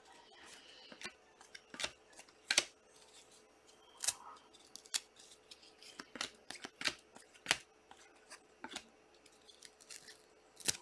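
Trading cards being flipped through and handled, giving a string of sharp, irregular clicks and snaps.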